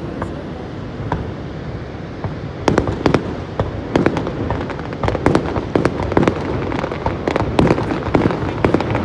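Aerial fireworks display: a steady rumble, then from about two and a half seconds in a rapid, irregular string of sharp bangs and cracks from bursting shells, several a second.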